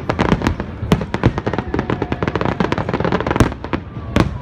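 New Year fireworks display: a dense, continuous crackle of many sharp cracks and pops each second, with a few louder single bangs standing out, one about a second in and two more near the end.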